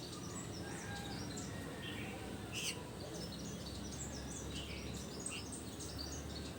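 Small birds chirping in quick series of short, high notes over a steady low background rumble. A single sharp click comes about two and a half seconds in.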